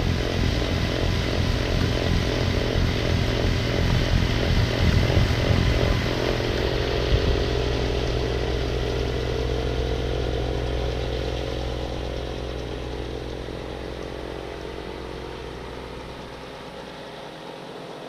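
Snowblower's gas engine running under load, with a pulsing rumble for the first few seconds, then a smoother, steadier note that grows fainter through the second half.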